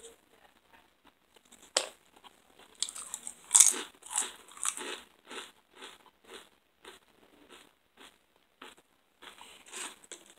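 A person biting and chewing crunchy food close to the microphone. A sharp crunch comes about two seconds in, then a loud run of crunching bites, then steady chewing at about two chews a second.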